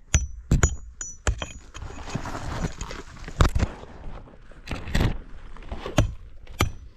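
Digging through rock and rubble in a cave: a series of sharp knocks and clinks of stone on stone and tool, with a longer rattle of loose rocks shifting about two seconds in.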